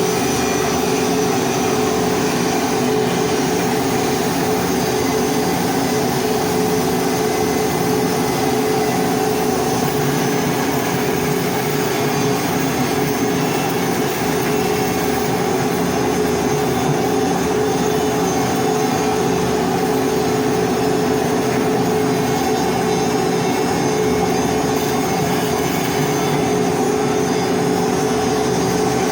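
Pipe hardfacing welding equipment running steadily: a constant machine drone with steady humming tones over a dense hiss, unchanging throughout.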